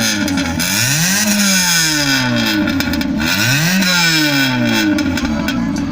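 VAZ 2112 coupe's four-cylinder engine revved through a Stinger aftermarket exhaust: the revs climb quickly and then sink back slowly, twice.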